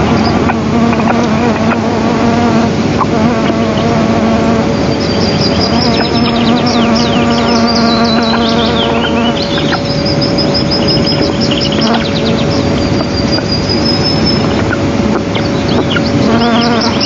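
A fly buzzing close to the microphone in bouts of a few seconds, stopping and starting again, with many short, high bird chirps and trills over it.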